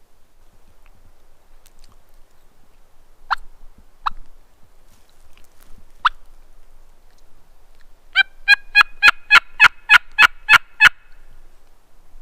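Hunter's turkey call: three single sharp clucks, then a run of about ten yelps at roughly four a second, sounded to strike a gobbler into answering. No gobble answers.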